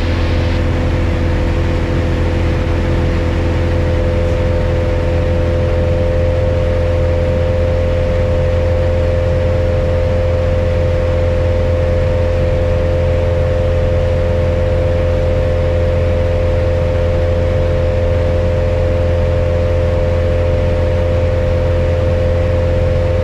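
Piper Cherokee 180's newly installed piston engine and propeller in steady cruise flight, a constant drone with an even hum, heard in the cabin. The engine is in its break-in period and running smoothly.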